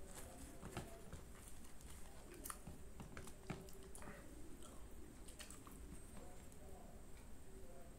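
Faint close-miked chewing and mouth sounds of someone eating butter naan with curry: irregular soft smacks and clicks, a few a second, alongside fingers tearing the soft naan.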